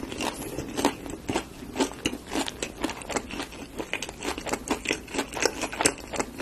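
A person chewing a mouthful of crunchy, fried, potato-cube-crusted corn dog: a steady run of crunching, several crackly chews a second.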